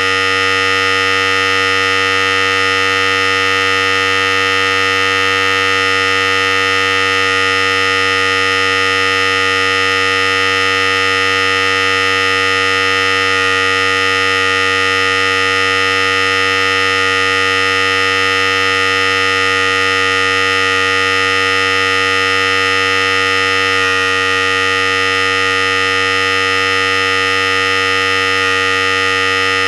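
Philips Series 5000 electric hair clipper running continuously with a steady, even buzz.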